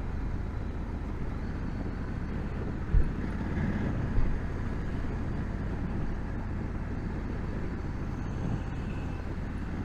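2020 Honda Africa Twin DCT's parallel-twin engine and wind noise as the motorcycle is ridden: a steady low rumble, with a short knock about three seconds in and another about a second later.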